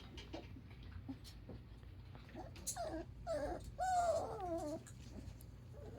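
Poodle puppy whining: a few short, wavering whimpers in the middle, the longest about a second, among light scratching and rustling.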